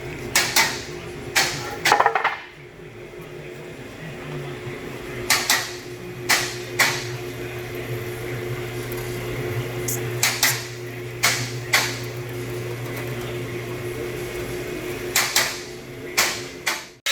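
Sharp metal clanks and knocks, about a dozen at irregular intervals and some in quick pairs, from a mechanic working on a car's exhaust, over a steady low machine hum.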